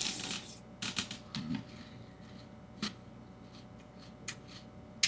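Crunchy cereal being chewed close to the microphone: a scatter of short, irregular crunches and clicks at a low level.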